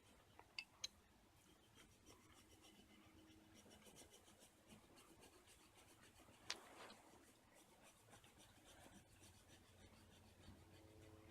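Faint scratching of a coloring pen or pencil drawing on paper, with two brief clicks under a second in and another about six and a half seconds in.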